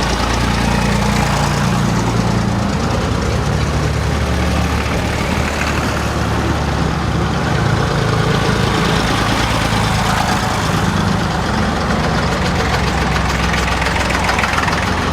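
Several farm tractor engines running at idle together, a steady low drone with more than one engine pitch shifting in and out.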